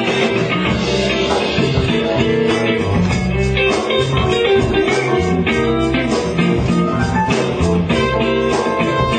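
Blues music led by electric guitar over a moving bass line, with a steady beat.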